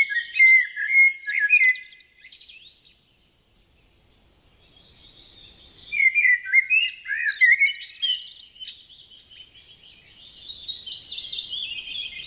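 Birdsong: a fast jumble of high chirps and warbled, sliding notes. It breaks off about two seconds in, goes nearly silent for about three seconds, then starts up again and carries on.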